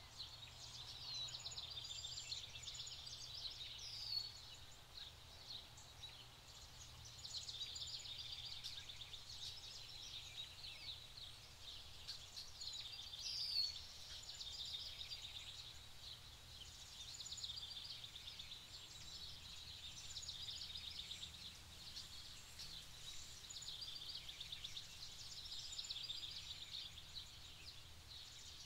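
Songbirds singing in a dense chorus of high trills and short whistled notes, in phrases that swell and fade every few seconds, with a couple of louder sharp notes.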